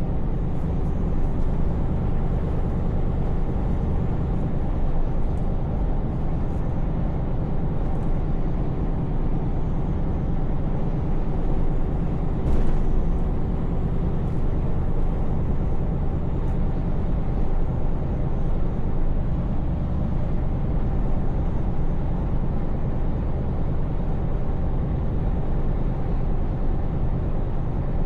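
Scania V8 diesel truck engine running steadily at cruise, a low even hum mixed with road and tyre noise. A single short click comes about halfway through.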